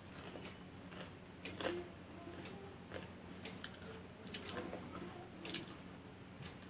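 Faint crunching and scattered clicks of a person eating popcorn off a newspaper, over a low steady electrical hum.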